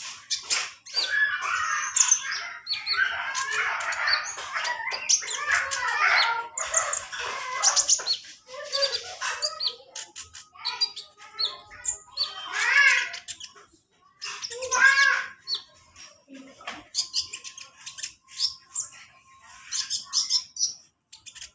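A small songbird sold in Indonesia as 'kolibri ninja', a sunbird, singing fast, high chirps and twittering trills, heaviest in the first half and then in shorter bursts with gaps. This is the kind of song that is played to untrained caged birds for them to learn.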